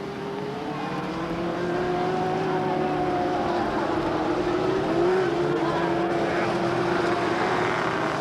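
Engines of small open-wheel race cars running on the track at steady speed, a sustained buzz that grows louder over the first two seconds, with a brief lift in pitch about five seconds in.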